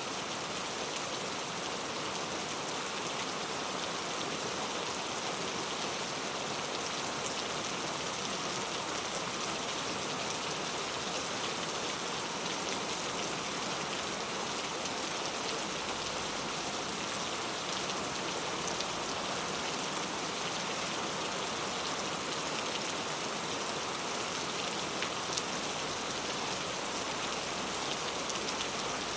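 Steady rain ambience: rain falling on a surface with scattered drop ticks, an even hiss that does not change.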